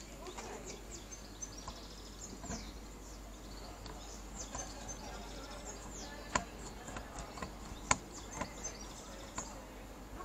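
Small birds chirping and twittering in quick, high, falling notes over a faint, steady low hum. Two sharp clicks stand out, one about six seconds in and a louder one near eight seconds.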